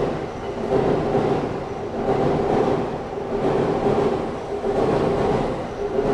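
A train rolling past over a level crossing, its wheels making a regular beat that swells about once a second.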